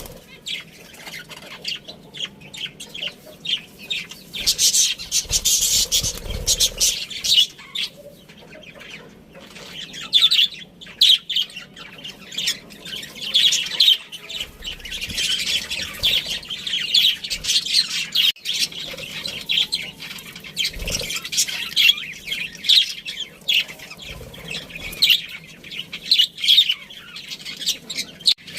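Budgerigars chattering and chirping without a break in quick, high-pitched bursts, with a few short low thumps.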